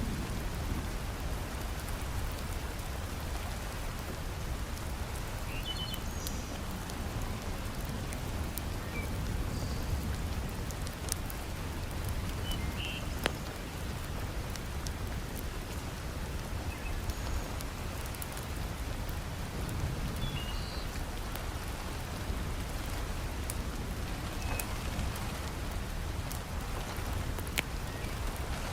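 Heavy rain falling steadily, with a deep low rumble under it and scattered sharp pops and crackles from a wood fire burning in a fireplace.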